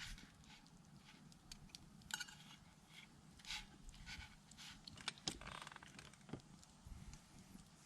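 Faint, scattered small clicks and ticks at irregular intervals, with a brief rustle about five and a half seconds in.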